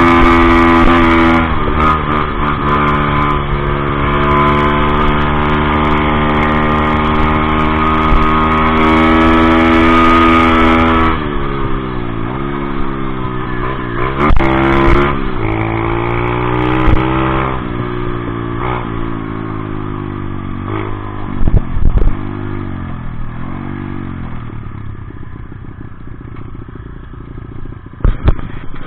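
Dirt bike engine held at high revs for about ten seconds, then rising and falling over and over as the throttle opens and closes and it shifts gears, fading toward the end. A few sharp knocks come through around the middle and near the end.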